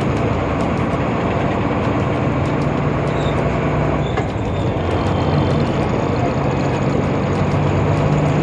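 Tata truck's diesel engine running with steady road noise while the truck is being driven, a continuous low hum.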